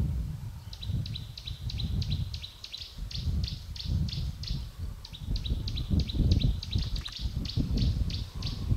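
A bird calling in a long run of short, high chirps, about five a second, with a couple of brief pauses, over a low, uneven rumble.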